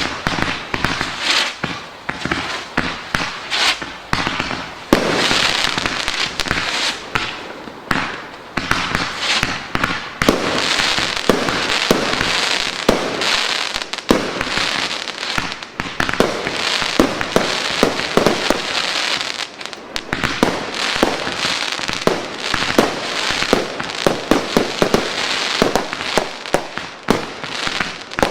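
A 55-shot 'Top Gun' firework cake firing in rapid succession: a steady stream of launch thumps and aerial bangs, with stretches of dense crackling.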